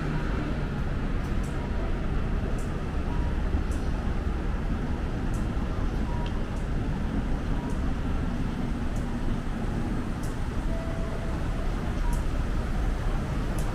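Steady city traffic noise: a continuous low rumble of passing road vehicles, with faint high ticks scattered through it.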